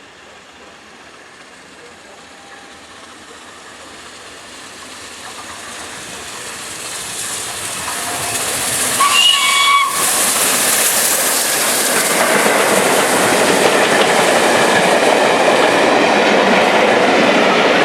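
Peppercorn A1 class Pacific steam locomotive 60163 Tornado approaching and passing at speed with its train: a rushing noise that grows steadily louder for about ten seconds, then stays loud and steady as it goes by. About nine seconds in, a short whistle-like tone sounds briefly.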